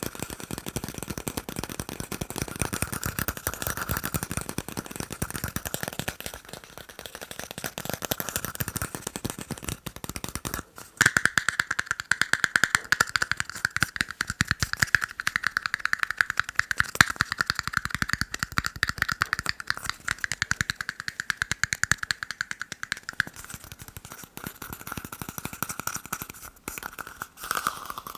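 Fast tapping on plastic cups: a dense, rapid stream of light clicks. About eleven seconds in, after a brief break, the taps take on a brighter ringing tone for about twelve seconds, then go back to a duller tapping.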